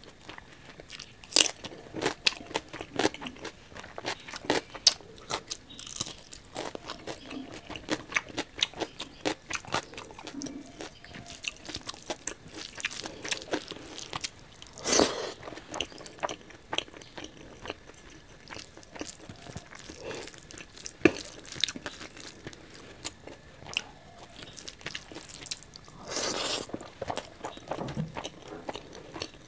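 Close-miked eating of rice and pork curry by hand: wet chewing, lip smacks and crunching with many sharp mouth clicks, and a couple of louder, longer noisy bursts about halfway through and near the end.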